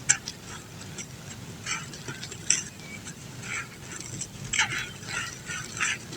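Lumps of dried brown dirt being crumbled, a crunchy, gritty crackling that comes in irregular bursts. There are sharp snaps just after the start and about two and a half seconds in, and a dense cluster of crunches in the last second and a half.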